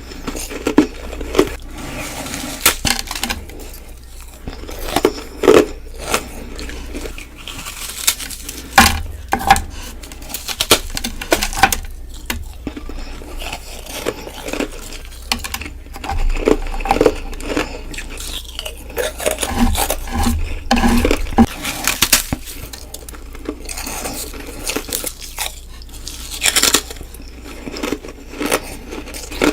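Close-miked bites into ice: repeated sharp cracks and crunches, irregularly spaced, some followed by grinding chews.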